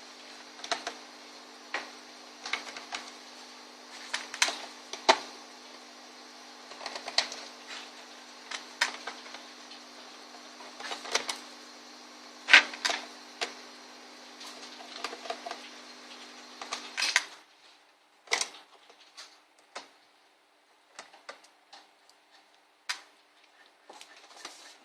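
Irregular small clicks and taps of laptop disassembly: screws, a screwdriver and plastic casing parts being handled, sometimes singly, sometimes in quick clusters. A steady low hum lies under them and cuts off about two-thirds of the way through.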